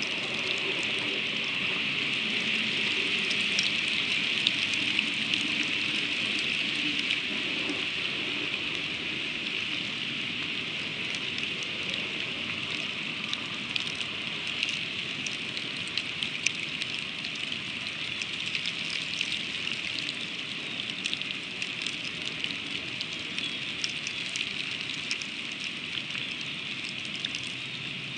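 Freezing rain falling steadily: an even hiss peppered with many small, sharp ticks of ice striking. It is a little heavier in the first third and eases slowly.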